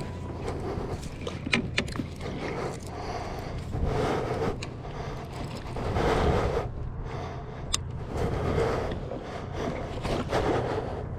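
Water lapping and sloshing against a kayak hull, swelling and easing about every two seconds, with a few sharp clicks and knocks.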